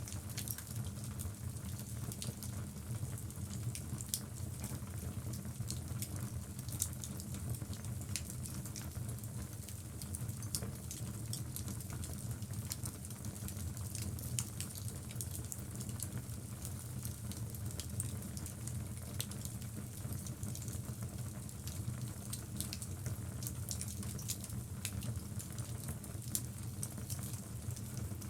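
Wood fire burning in a fireplace: a steady low rumble of flame with frequent small, irregular crackles and pops from the logs.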